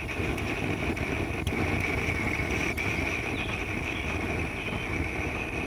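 Vintage pressurized gasoline blow torch lamp burning: a steady rushing flame noise with a hiss on top.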